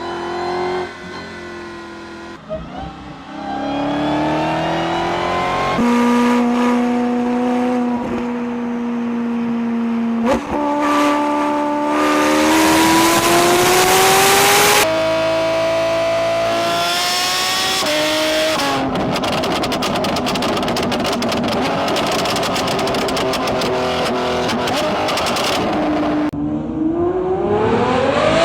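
High-performance car engines and exhausts accelerating hard through the gears in several separate clips: the engine note climbs in pitch, drops at each upshift and climbs again, with a rougher, noisier stretch in the second half.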